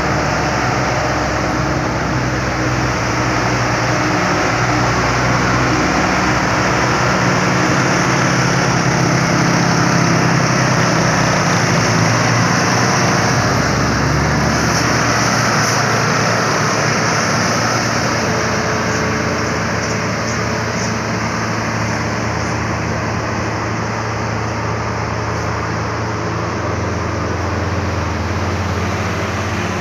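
Heavily loaded ten-wheel truck's engine running under load on a steep uphill climb, with its tone shifting a few times, over steady road noise.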